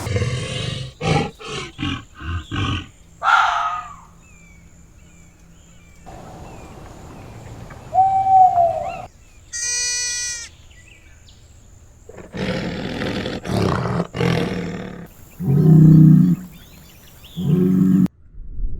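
Animal calls in several short separate clips played one after another, with abrupt cuts and quieter gaps between them: a run of quick calls at first, a high pitched cry about ten seconds in, and lower calls in the last few seconds.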